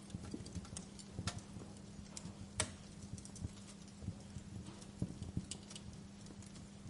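Fireplace fire crackling: irregular snaps and pops over a soft hiss, with one sharper pop about two and a half seconds in.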